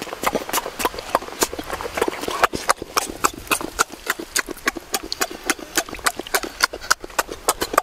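Close-up wet chewing and lip-smacking of boiled egg: a rapid, uneven run of sharp mouth clicks, several a second.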